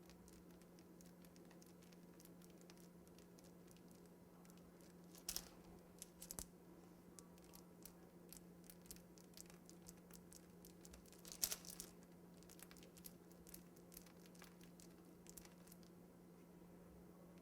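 Faint crinkling and clicking of a piping bag of buttercream being squeezed, with a few louder crackles about a third of the way in and again past the middle, over a steady low hum.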